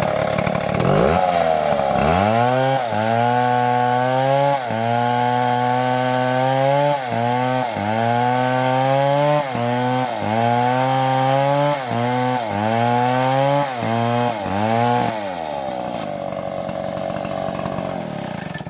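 STIHL MS720 chainsaw cutting into a tree trunk. Its engine note drops low under load about two seconds in, then dips and recovers roughly once a second as the cut goes on. Near the end the note thins to a fainter, steadier whine before cutting off.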